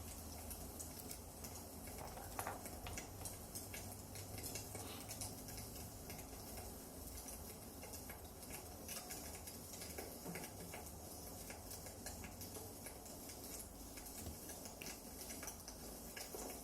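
Wood fire burning in a fireplace, crackling faintly with scattered small pops and ticks over a steady low rumble.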